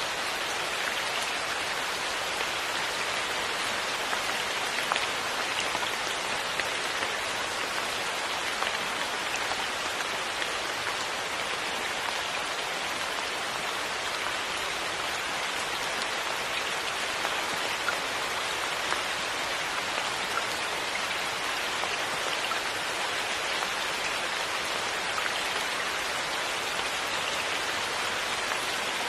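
Steady rain falling, a continuous even patter with scattered individual drops ticking on a surface.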